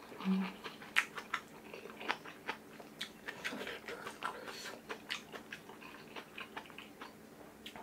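Close-miked chewing of a mouthful of rice and kimchi stew, with soft wet smacks and small mouth clicks at irregular intervals.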